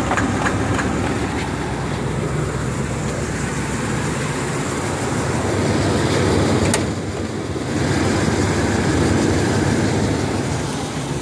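1979 Buick Regal's V8 engine idling steadily, with a single sharp click about seven seconds in.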